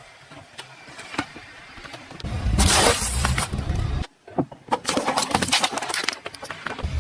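A car's tyres rolling over and crushing objects, a dense crunching and crackling over a low rumble that begins about two seconds in. It stops abruptly about four seconds in, then resumes as a run of sharp cracks and snaps.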